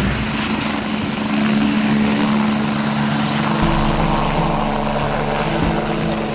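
Helicopter running: a steady engine hum under a broad rushing noise.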